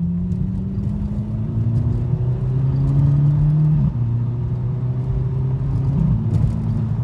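Car engine pulling steadily under acceleration, its pitch climbing slowly and dropping sharply at two upshifts, about four seconds in and again two seconds later.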